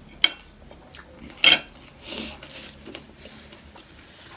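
Utensils clinking and knocking against dishes: a sharp knock about a quarter second in and a louder one about a second and a half in, followed by a short rustling patch.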